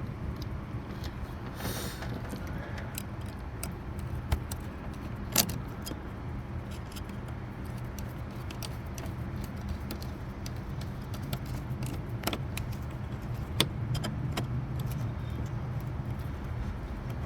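Scattered metallic clinks and clicks of hand tools as the bolts on a new serpentine belt tensioner are tightened, a few sharp knocks spread seconds apart over a steady low hum.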